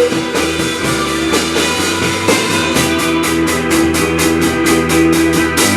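Rock band playing live without vocals: electric guitar, bass and drum kit, with rapidly repeated cymbal strokes that grow stronger in the second half.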